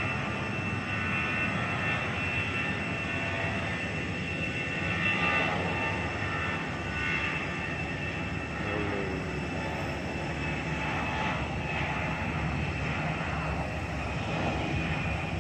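Airplane engine noise: a steady rumble with a thin high whine over it.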